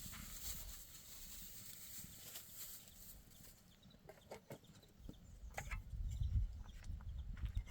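A few short, sharp animal calls come in a cluster about four to six seconds in, over a low rumble.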